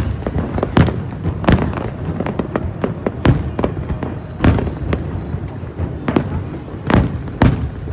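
Fireworks display: a rapid, irregular run of aerial shell bursts going off over a steady rumble, with the loudest bangs about a second and a half in and again near the end.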